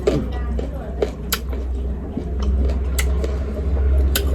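Eating and food-handling noises: scattered sharp clicks and taps, about one or two a second, over a steady low hum.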